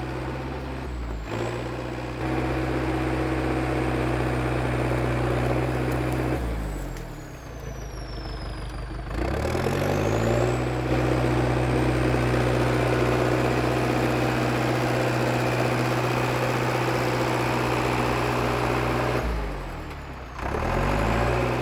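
International Harvester TD8E crawler dozer's diesel engine running steadily under throttle. About six seconds in, the revs drop and climb back up over a few seconds, and they dip and recover again near the end.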